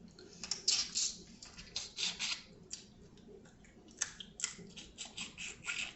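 Wet eating sounds of seafood from a seafood boil: a run of short, irregular crackles and squishes as juicy food is bitten, chewed and handled.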